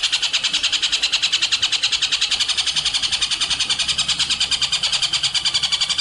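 Recorded songbird giving a rapid, unbroken string of high chirps, about ten a second, played as a master song for training cage birds.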